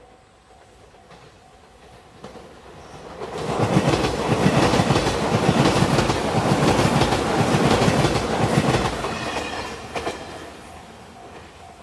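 A JR Shikoku 8000 series electric limited express train passes at speed, its wheels clattering rhythmically over the rail joints. It builds over the first few seconds, is loudest through the middle, and fades away near the end, with a level-crossing warning bell ringing faintly at the start.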